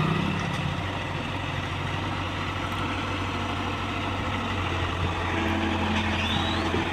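Heavy diesel engine running steadily at low revs; a higher engine note drops away under a second in, leaving a steady low hum.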